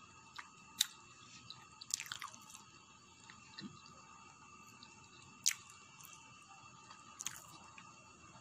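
A person chewing a slice of pizza close to the microphone, with a few sharp crunches and mouth clicks, the loudest about a second in and about five and a half seconds in.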